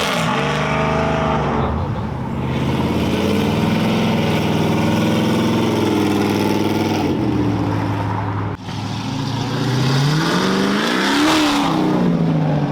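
Car engines accelerating away from a car show exit, the revs rising to a peak about eleven seconds in and then falling off.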